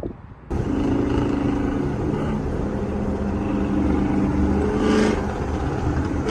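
A car engine running steadily with a low rumble. It comes in suddenly about half a second in.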